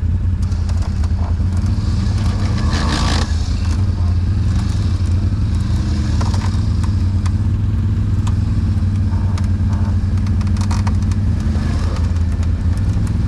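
ATV engine idling steadily, with a brief burst of higher-pitched noise about three seconds in.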